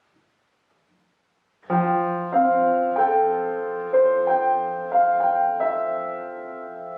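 Near silence for under two seconds, then solo piano music begins: single notes struck every half second to a second over a held low bass note.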